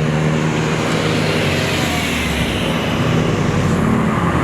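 Car engine held at high, steady revs that give way to a rush of noise midway, then the engine pitch climbs again near the end.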